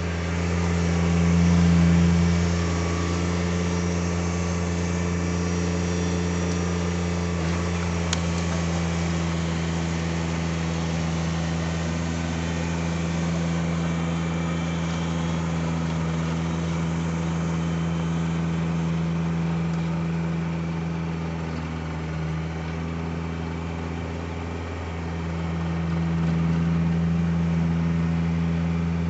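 Kubota BX1850 compact tractor's three-cylinder diesel engine running at a steady speed, swelling slightly louder about two seconds in and again near the end.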